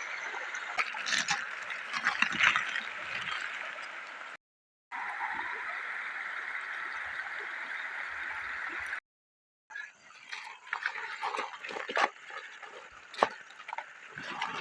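Shallow river water running with a steady hiss, which drops out twice briefly. In the last few seconds come irregular splashes and knocks in the water.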